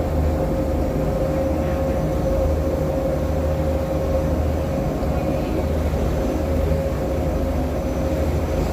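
A vehicle's motor running steadily: a low hum under one constant mid-pitched whine.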